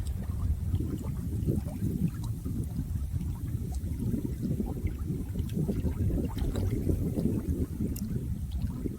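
Running water, a steady low churning sound with scattered small drip-like ticks over it.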